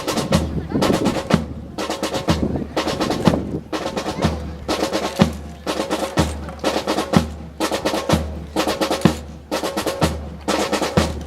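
Marching percussion section playing a drum cadence: rapid snare drum strokes and rolls over deep bass drum beats about once a second.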